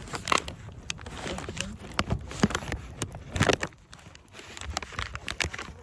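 Wood bonfire crackling, with sharp, irregular pops and cracks over a low rumble.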